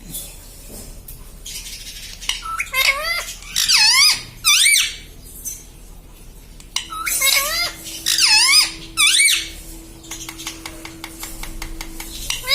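A pet ring-necked parrot giving loud, high repeated calls in two bursts of several calls each. A fast run of clicks follows near the end.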